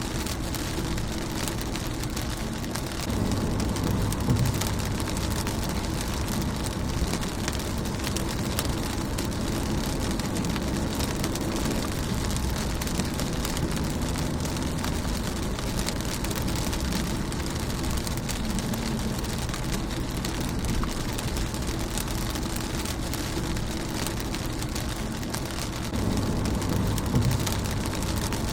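Rain falling steadily on a car's windscreen and bodywork, an even patter. A low rumble swells up about three seconds in and again near the end.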